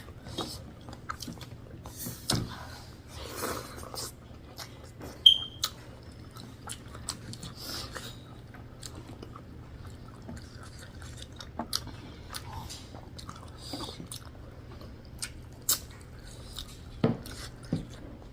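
A person chewing and eating a meal of rice and pork close to the microphone, with many scattered short mouth clicks over a steady low hum.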